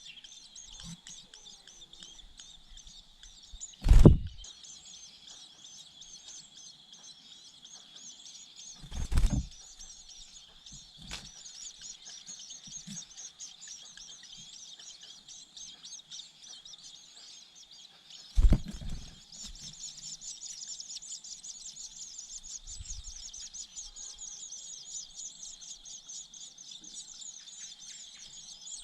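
Outdoor background of a steady, high-pitched chirring buzz, growing louder about two-thirds of the way in, broken by three loud, short thumps about four, nine and eighteen seconds in.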